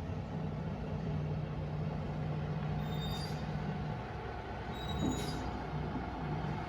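Bulldozer's diesel engine running steadily, a low drone, with two brief faint high squeaks about three and five seconds in.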